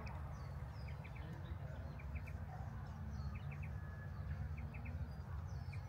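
A bird outdoors repeating a short three-note chirp every second or so, over a steady low rumble.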